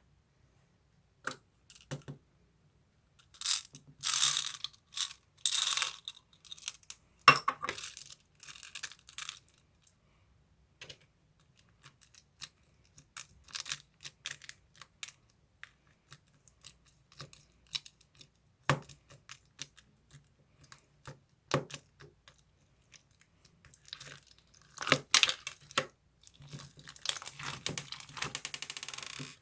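Handling noises: scattered clicks and taps, with bursts of crinkling and rustling, denser near the end.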